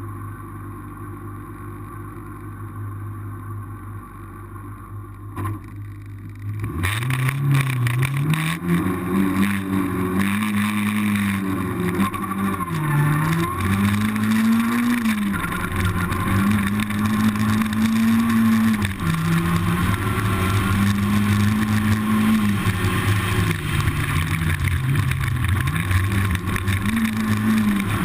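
Renault Clio Cup race car engine: a low steady hum for the first several seconds, then about seven seconds in the engine comes in loud and pulls hard, its pitch climbing, holding and dropping again and again with gear changes and lifts.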